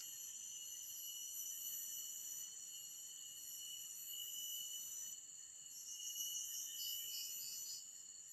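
Steady high-pitched droning of a forest insect chorus. From about six seconds in, a bird adds a quick series of four or five chirping notes.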